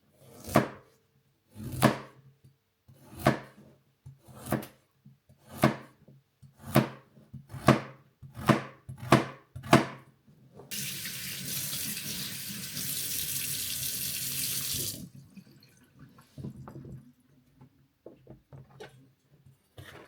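A series of about ten sharp knocks, about a second apart and quickening, then a water tap running into a sink for about four seconds before it is turned off, followed by a few faint clicks.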